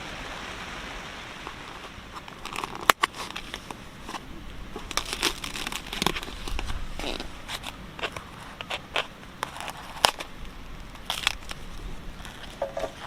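Irregular crinkling and clicking, like something being handled or rustled, over a steady hiss of rain that fades after the first couple of seconds.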